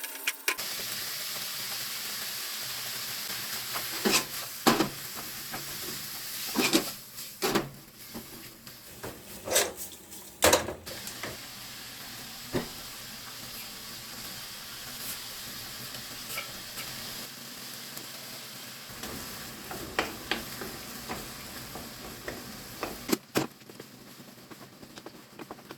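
Food sizzling in a frying pan, with a cooking utensil stirring and knocking against the pan a dozen or so times. The sizzle dies down near the end.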